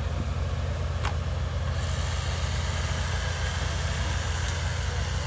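Off-road vehicle engine running steadily with a low, pulsing rumble, and a single sharp click about a second in.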